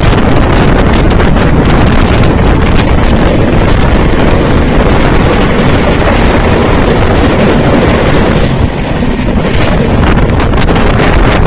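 Wind rushing over the microphone on a moving passenger train, mixed with the train's running noise, loud and steady, with a short lull about two-thirds of the way through.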